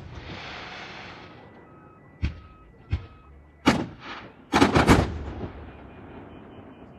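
Aerial fireworks exploding. A hiss fades out in the first second, then come sharp bangs: two lighter ones about two and three seconds in, a loud one near four seconds, and a quick cluster of several about a second after that.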